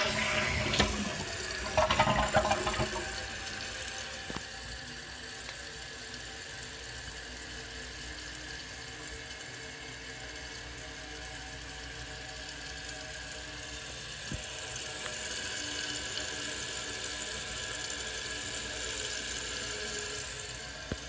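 Kohler Wellworth toilet tank refilling after a flush: water rushes and gurgles for the first few seconds, then the fill valve runs with a steady hiss of water and a faint steady whine.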